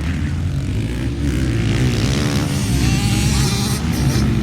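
Motocross bikes racing, their engines revving up and down in overlapping, wavering pitches.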